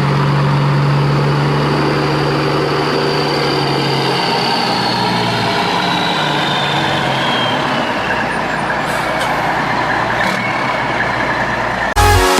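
Large truck engine running steadily, with a high whine that slowly falls in pitch. Music cuts in just at the end.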